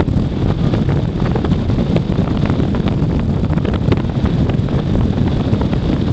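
Wind buffeting the microphone: a loud, steady low rumble with irregular gusty thumps.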